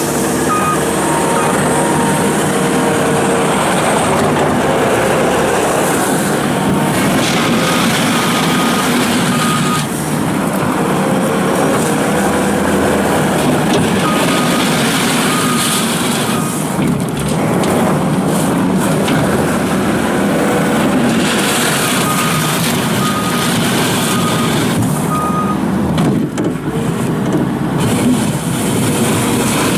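Case SR220 skid steer loader running and being worked, its engine and hydraulics changing pitch as it moves. Three spells of a backup alarm beeping, a few beeps each, sound as it reverses.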